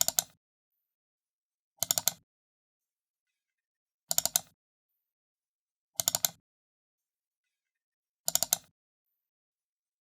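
Computer mouse button double-clicked, a quick pair of sharp plastic clicks about every two seconds, five times, with silence between.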